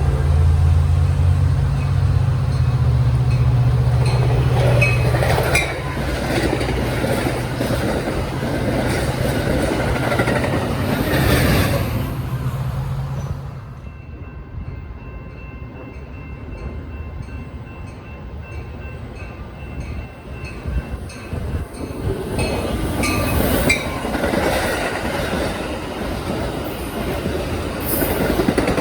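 Commuter train passing at speed: its diesel locomotive drones loudly for roughly the first half, then the cars roll by with wheels clicking over the rail joints. The rolling noise swells again near the end.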